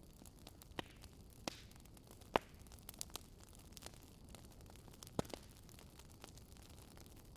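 Wood campfire crackling: scattered sharp pops and snaps, the loudest about two and a half seconds in and another just after five seconds, over a faint steady low hiss.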